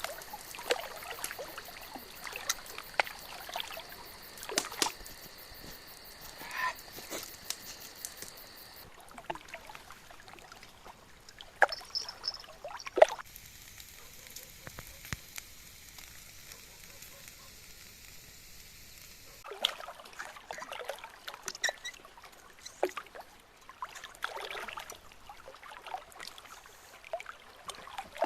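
Water sloshing and trickling, with many scattered sharp clicks and knocks, two of them much louder about twelve and thirteen seconds in. A steady high tone runs through the first third and stops abruptly.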